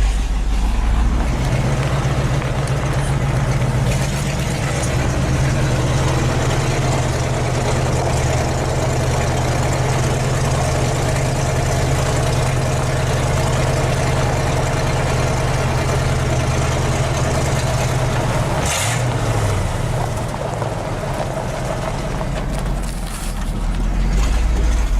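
Ford F-150 pickup engine running with its exhaust cut off and no mufflers, loud and unmuffled while driving, in a steady drone. About three-quarters of the way through the note breaks off and drops, then builds again near the end.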